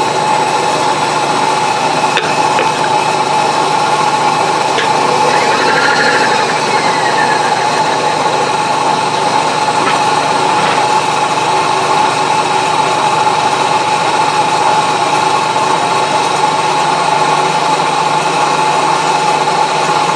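Milling machine running with its spindle at just over 100 RPM, giving a steady mechanical hum with a held tone through it.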